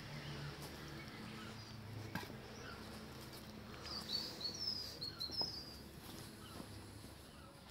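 Small birds chirping over faint outdoor background noise, with a brief run of high chirps about four seconds in. A low steady hum sits underneath.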